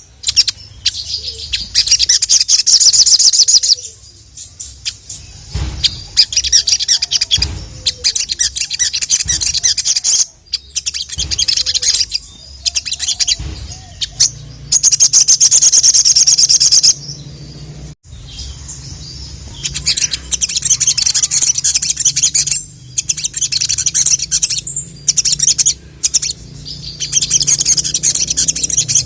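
Sogok ontong (ruby-cheeked sunbird) singing: rapid, high-pitched twittering trills in bursts of a few seconds with short pauses between, over a low steady hum.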